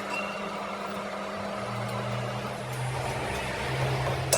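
Steady low machine hum, with a single sharp click near the end.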